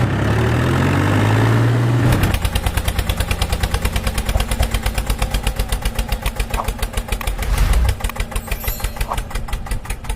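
An engine drones with a steady tone that swells slightly in pitch, then about two seconds in it changes to a fast, even idling chug of about nine beats a second.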